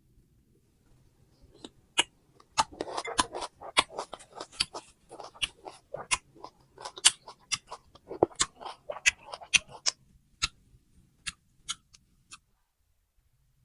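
Chewing of crisp raw fruit: a fast run of sharp crunches, thickest from about two and a half to ten seconds in, then thinning out and stopping shortly before the end.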